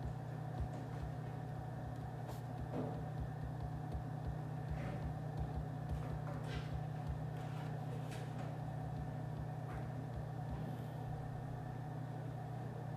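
Office background noise: a steady low hum, like ventilation or machinery, with a few faint scattered clicks and taps.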